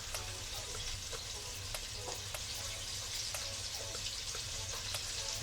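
Battered chicken wings frying in hot oil: a steady sizzle with scattered small pops.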